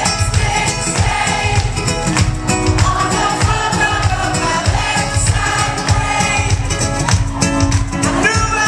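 Live pop-rock band performing, with a male lead vocal singing over a steady drum beat and band accompaniment.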